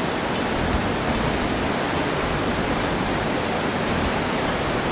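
Steady, loud rush of whitewater: a creek or river rapid running without a break.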